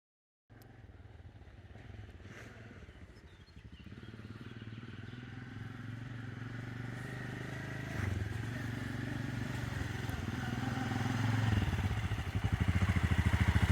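Motorcycle engine running with an even firing pulse, growing steadily louder, with a jump in revs about eight seconds in.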